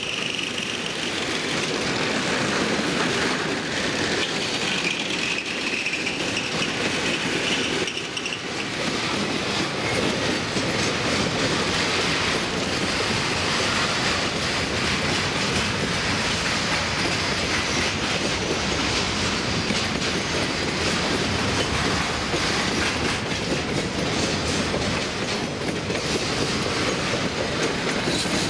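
Freight train wagons rolling past: a steady rumble of steel wheels on rail with clickety-clack over the rail joints, and a thin wheel squeal during the first several seconds.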